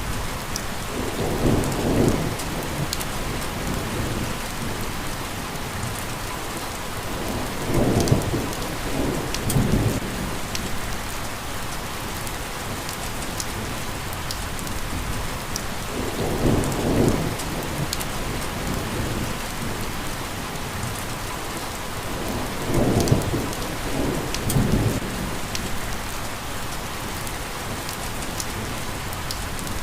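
Steady heavy rain hissing on a surface, with fine drop patter, and about half a dozen short, low thunder rumbles, each around a second long, coming and going through it.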